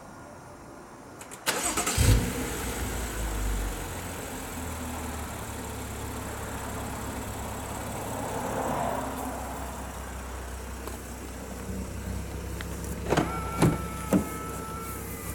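BMW M135i's turbocharged straight-six cranked by a remote engine starter, catching about two seconds in with a brief flare, then settling to a steady idle. Near the end, three sharp clicks and a short steady tone.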